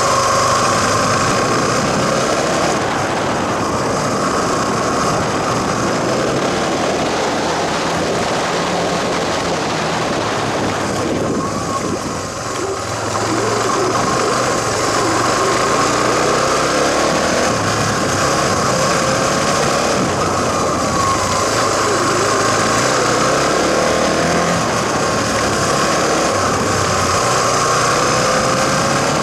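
Suzuki Djebel dual-sport motorcycle's single-cylinder engine running under way on a gravel road, its pitch rising and falling with the throttle and easing off briefly about twelve seconds in, under a steady rush of wind noise.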